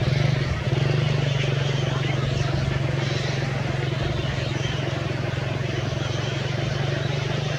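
A motor running steadily with a constant low drone.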